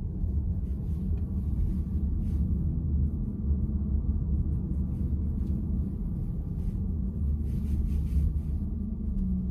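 Steady low road and tyre rumble inside the cabin of a VW ID.4 electric car while driving.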